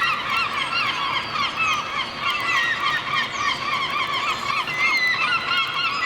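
A dense, continuous chorus of many overlapping short chirping calls from a flock of birds.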